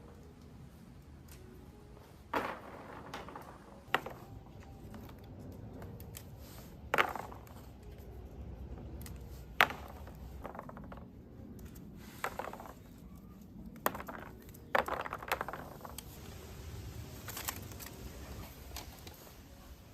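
Irregular sharp clicks and light knocks of small hard objects being handled, about ten spread through the stretch over a faint background.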